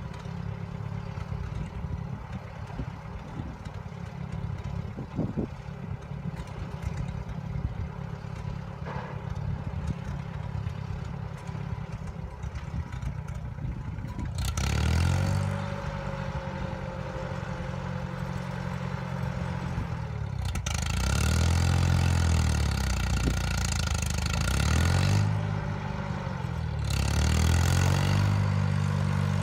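Farmall M tractor engine running with some clatter, quieter at first and louder from about halfway, its engine speed then dipping and recovering several times as the load and throttle change.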